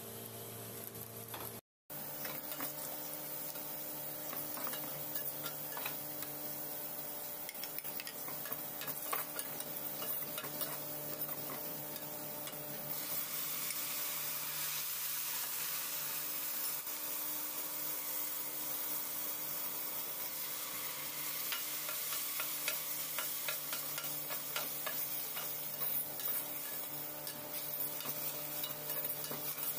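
Sliced onions frying in an aluminium pot, crackling and sizzling while a slotted metal spoon stirs and scrapes them. The sizzle grows louder about halfway through, once the watered spice mix goes into the pot.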